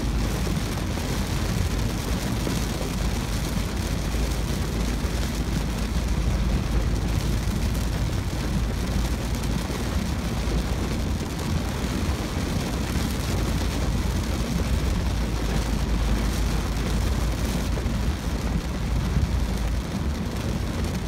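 Heavy rain on a moving car, heard from inside the cabin: a steady rush of rain on the roof and windshield over constant road and tyre noise with a low rumble.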